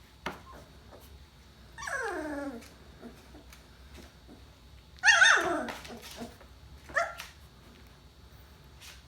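Two-and-a-half-week-old puppies whining: three falling cries about two seconds in, at five seconds (the loudest) and a short one at seven seconds, with faint clicks between.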